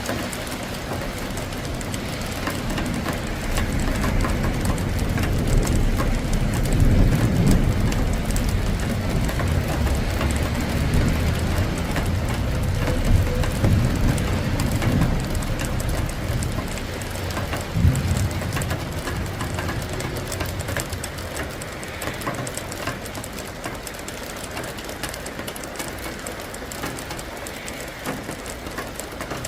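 Steady rain falling, with a long low rumble of thunder that builds a few seconds in, rolls on in waves for about fifteen seconds with a sharper crack near the middle, then dies away, leaving the rain.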